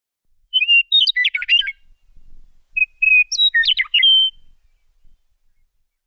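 A songbird singing two short phrases about a second apart. Each opens with a clear whistled note and runs into a quick jumble of varied high notes.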